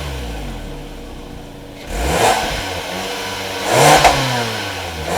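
2011 Kia Sportage LX's 2.4-litre four-cylinder engine being free-revved. The revs sink back toward idle, then the engine is blipped twice, about two seconds in and again near four seconds, the second blip the louder. Each blip falls away quickly.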